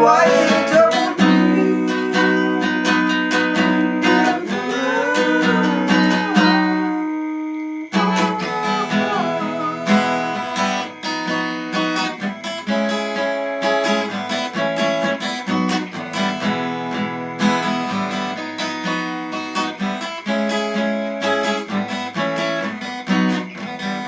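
Instrumental music led by acoustic guitar, plucked and strummed, pausing briefly about seven seconds in before carrying on and fading near the end.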